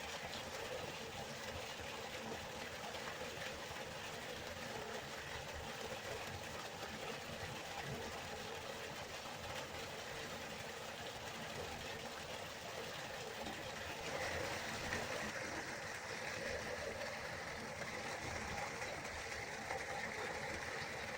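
River water flowing steadily, a continuous rushing sound; about two-thirds of the way through it turns brighter and hissier.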